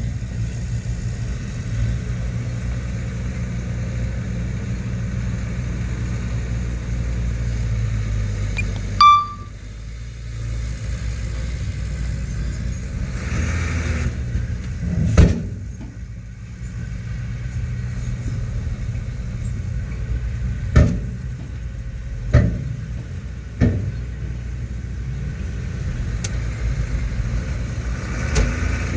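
Heavy earthmoving machinery running with a steady low diesel rumble, broken by a few sharp knocks.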